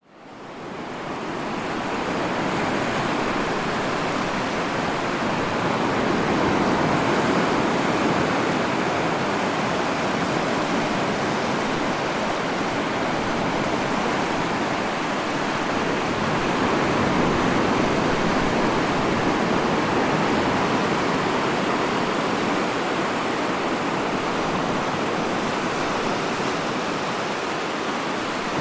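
Ocean surf: a steady wash of breaking waves that fades in over the first couple of seconds, then holds with slow, gentle swells in level.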